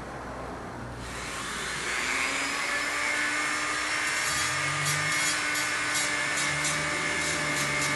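Hand-held rotary tool (moto tool) with a half-inch grinding wheel spinning up with a rising whine about a second in, then running steadily while grinding a workpiece to shape, the wheel biting in short repeated passes.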